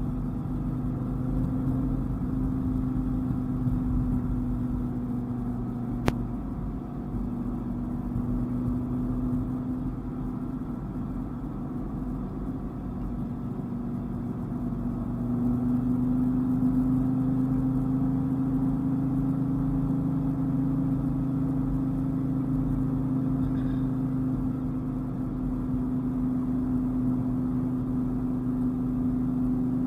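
Dodge Viper's V10 engine running steadily at cruise, pulling a little harder and louder from about halfway through. A single sharp click about six seconds in.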